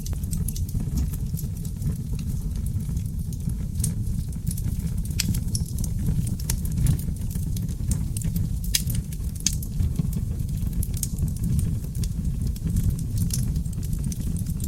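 Wood fire of seasoned oak logs burning in a fireplace: a steady low roar of flames with frequent, irregular sharp crackles and pops.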